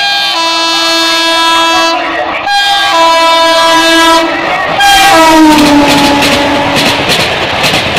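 Electric locomotive's air horn sounding in long blasts, with a short break about two seconds in, as a high-speed train approaches. Around five seconds in the horn's pitch drops as the locomotive goes by. The rushing rumble and rapid clatter of LHB coach wheels on the rails then follow.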